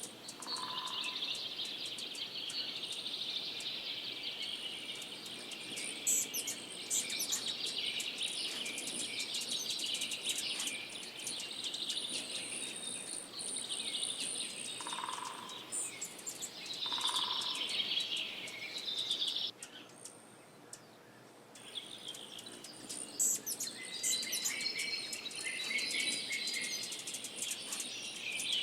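Birds chirping and singing in a dense, continuous chorus of high calls, with a short lull about twenty seconds in.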